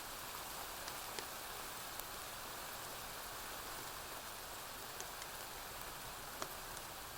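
Steady rain falling, with a few sharp pops from a crackling wood fire, the loudest about six and a half seconds in.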